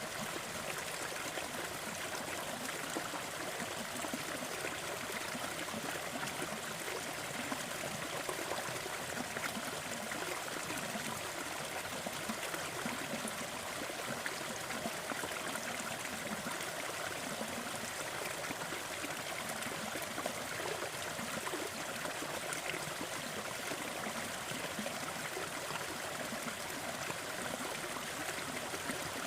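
Small forest waterfall and stream running steadily, a continuous splashing and trickling of water.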